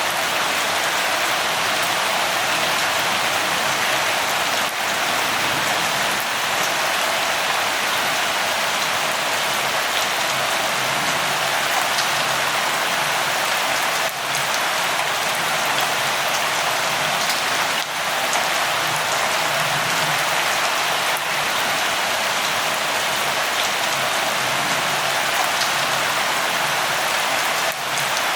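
Steady rain falling, a continuous even hiss that dips briefly a few times.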